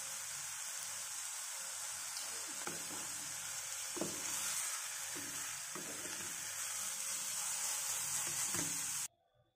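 Grated radish, tomato and coriander sizzling in oil in a pan as they are stirred with a wooden spatula, with a few light knocks of the spatula against the pan. The sizzle cuts off abruptly near the end.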